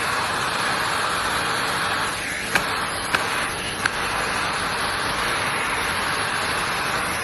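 Lavor Swimmy pool vacuum's motor running steadily with an even rushing noise, with three short sharp clicks about two to four seconds in.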